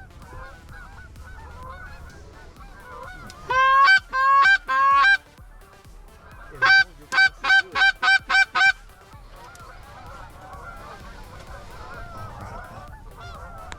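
Canada geese honking and clucking. A steady low chatter of many birds runs throughout, broken by two loud, close runs: four long honks a few seconds in, then about seven short, clipped honks in quick succession.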